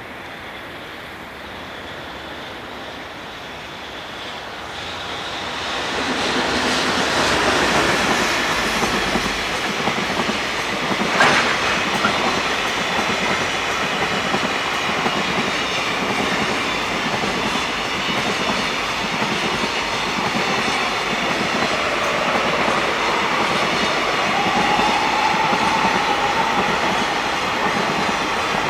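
Freight train coming in about five seconds in and rolling past with a steady rumble of wheels and clickety-clack over the rail joints. There is one brief sharp sound about eleven seconds in, and a faint wheel squeal near the end.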